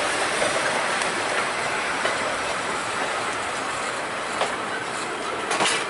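Passenger coaches rolling slowly past on the rails, their wheels making a steady rolling noise that slowly grows quieter, with a few sharp clicks near the end.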